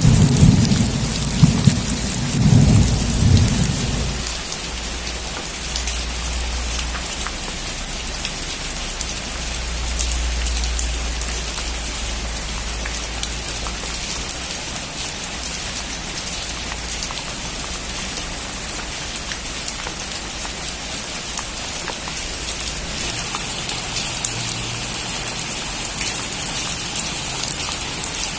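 Heavy rain falling on a metal roof, with a loud, low thunder rumble that dies away about four seconds in. The rain then runs on steadily, turning hissier in the last few seconds.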